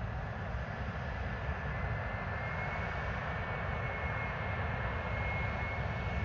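Airliner jet engines running: a steady rumble with a thin, high, steady whine over it.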